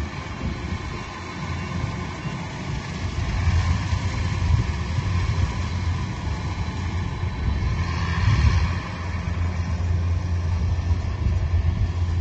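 Harvest machine's engine running steadily with a low rumble, growing louder about three seconds in and swelling briefly around eight seconds.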